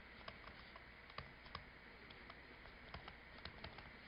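Near silence, broken by faint, irregular light clicks and taps.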